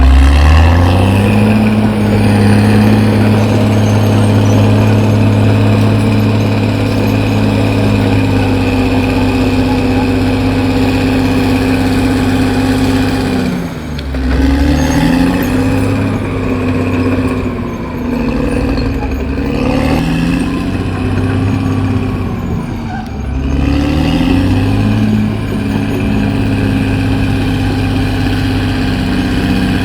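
CAT D6R XL bulldozer's diesel engine running hard at steady high revs. A few times partway through, the engine speed drops and climbs back up.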